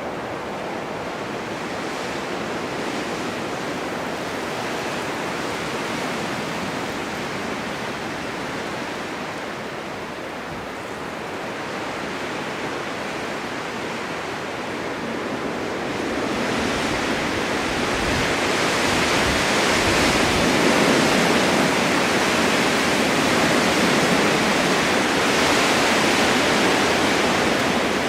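Blizzard wind blowing snow, a steady rushing noise that rises in a stronger gust about sixteen seconds in and stays up.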